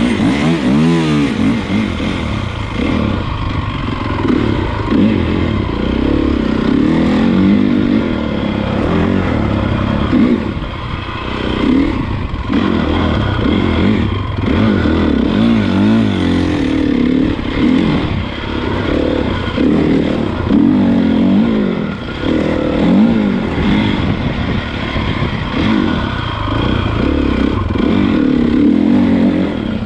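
Honda CRF450 motocross bike's single-cylinder four-stroke engine being ridden, revving up and falling back again and again as the throttle opens and closes.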